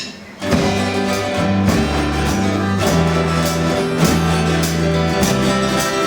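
An eleven-piece band starts playing the intro of a pop song live about half a second in, with a steady beat.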